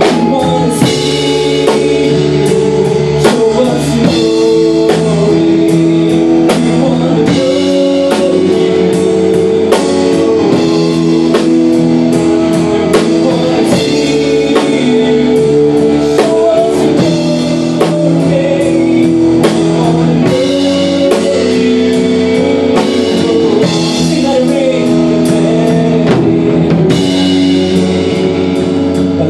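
Live worship band playing an instrumental stretch of a rock-style praise song: guitars holding sustained chords over a steady drum kit beat.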